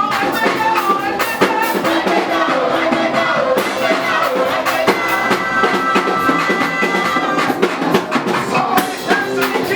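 Live gospel praise music: a band with drums playing under singing voices, with a sustained chord held for a couple of seconds midway.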